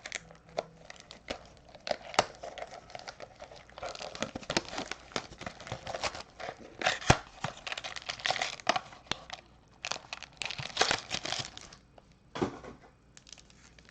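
Plastic wrapping on trading-card packs crinkling and tearing as it is opened, with irregular crackles and small sharp clicks.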